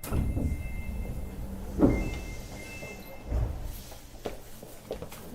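Door-closing buzzer of a Sapporo Municipal Subway 8000-series car: a steady two-tone buzz that pauses once and sounds again. It is the car's unusual, non-standard door buzzer. A heavy thud about two seconds in marks the sliding doors shutting.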